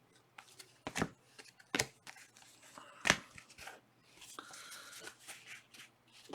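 Trading cards and their packaging being handled: three sharp snaps in the first three seconds, then softer rustling and sliding.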